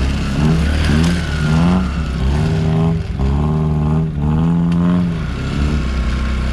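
Off-road 4x4 vehicle's engine revving up and down repeatedly, rising and falling in pitch about six times over a steady low rumble.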